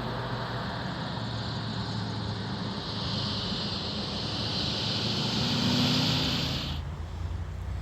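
Motor vehicle running with road noise and a steady high hiss, swelling a little before cutting off abruptly near the end, where a lower rumble takes over.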